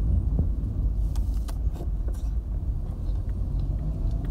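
Car driving, heard from inside: a steady low rumble of engine and road noise, with a few light clicks and rattles between about one and two seconds in.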